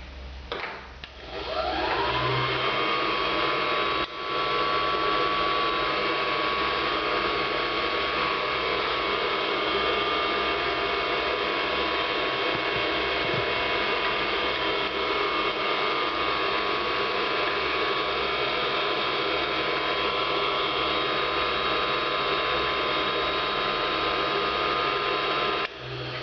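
Optician's hot-air frame warmer switched on: its fan motor spins up with a rising whine that settles into a steady tone over the hiss of blowing air. It runs evenly, with a brief dip a few seconds in, and is switched off near the end.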